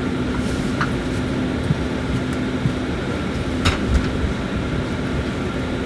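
Steady hum and rush inside the cabin of a propeller airliner on the ground before takeoff, with a constant low drone. Two brief clicks come about a second in and again past halfway.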